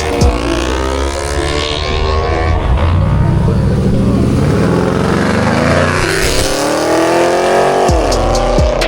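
Car engines revving and accelerating as cars pull away, the engine note climbing and falling several times, with a sharp drop about eight seconds in before it climbs again.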